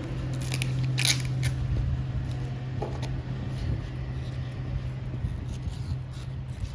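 Fan palm leaf strips rustling and crackling as they are handled and woven, with a cluster of sharp crackles in the first second and a half and scattered clicks after, over a steady low hum.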